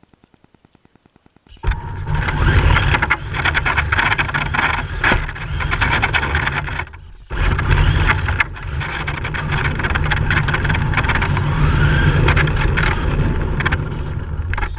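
Radio-controlled drift car running, starting up about a second and a half in: a motor whine over crackling tyre and surface noise, dropping off briefly a little before halfway and then picking up again.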